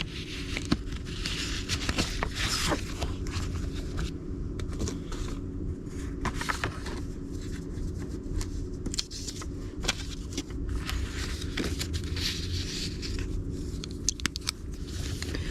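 Pen scratching on a paper index card in several stretches, with small clicks and taps of card handling, over a steady low hum.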